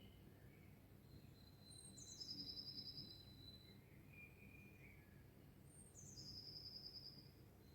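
Songbirds singing faintly: one bird repeats a short high song, a few quick falling notes ending in a fast trill, twice about four seconds apart, while another holds a long thin high note and lower chirps come in between.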